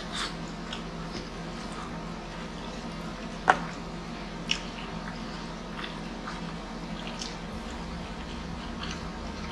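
Close-miked eating sounds: chewing, biting and mouth smacks of people eating grilled chicken inasal and rice by hand, with scattered small wet clicks. Two sharper clicks stand out, about three and a half seconds in and a second later.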